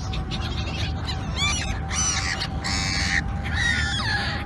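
Birds calling harshly, several calls in quick succession, the longest about halfway through, over a steady low rumble.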